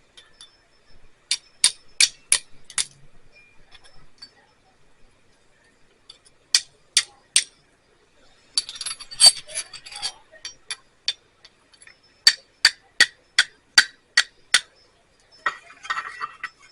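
A flint and steel striking: sharp, ringing metal-on-stone clinks in quick runs of three to eight strikes, with a short rattling scrape about nine seconds in, as sparks are thrown at tinder.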